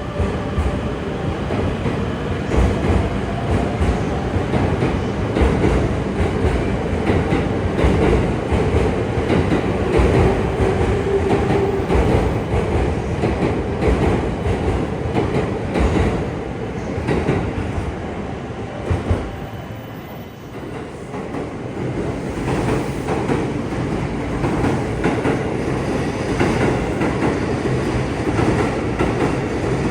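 Electric commuter train running on rails, its wheels clattering over the rail joints in a steady run of clicks. The noise eases briefly about 20 seconds in.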